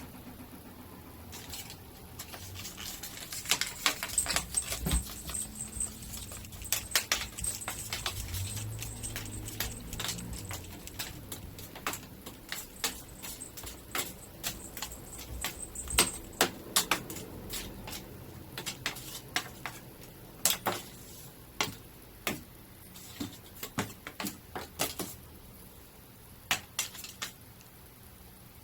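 A cat crunching dry kibble: many quick, irregular crunches and clicks, in bursts with short pauses.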